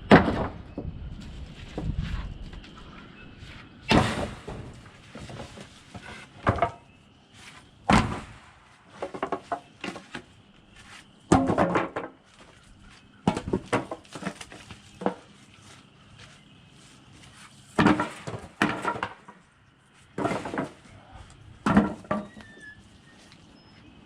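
Heavy wooden 6x6 pine beams being handled and set down on a pile: a series of loud wooden thuds a few seconds apart, with scraping and knocking between them.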